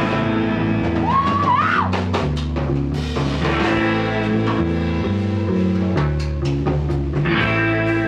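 Live rock band playing an instrumental passage: drum kit, bass guitar and electric guitar, with the guitar bending notes about a second in.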